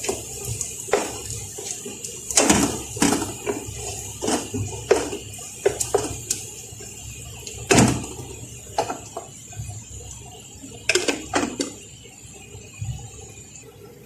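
Onion and garlic sizzling in butter in a frying pan, a steady high hiss, with a utensil knocking and scraping against the pan every second or so as they are stirred. The onions are browning.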